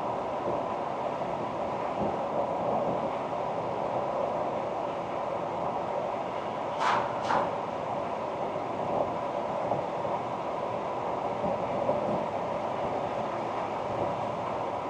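A Ford Ranger pickup driving along: a steady running noise of engine and tyres, with two short sharp clicks about seven seconds in, half a second apart.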